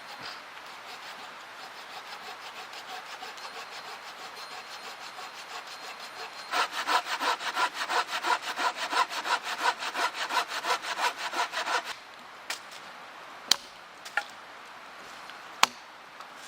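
Hand saw cutting through wood with quick back-and-forth strokes, light at first, then harder and louder at about four strokes a second for the last half of the cut. After the sawing stops come a few sharp clicks, two of them loud.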